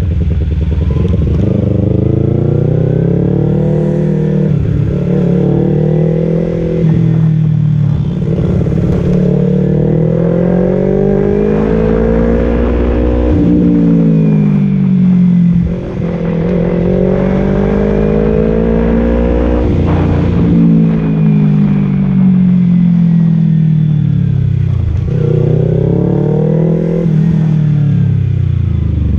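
Kawasaki Z250's parallel-twin engine through a Leovince Cobra aftermarket exhaust, its revs repeatedly climbing over a few seconds and then dropping away.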